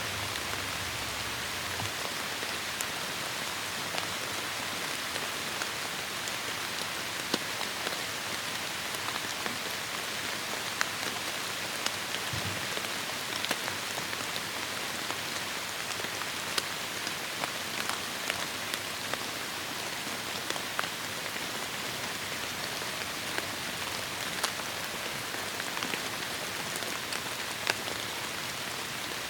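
Heavy rain falling steadily in a forest: a dense even hiss of rainfall with many separate drops striking close by throughout.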